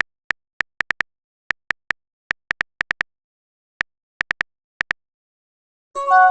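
Irregular single clicks of a phone keyboard typing sound, a few per second with pauses, then near the end a bright ringing chime of a text message being sent or received.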